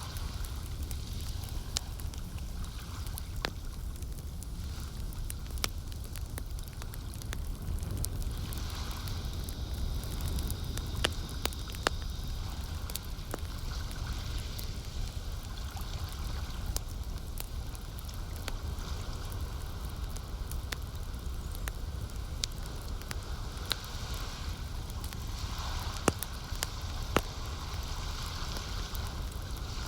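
Wood campfire crackling, with sharp pops scattered throughout and a few louder ones near the middle and near the end, over a steady low rumble and the soft wash of lake water.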